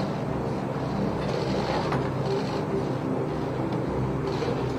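A vehicle engine running steadily: a low, even rumble with a faint hum.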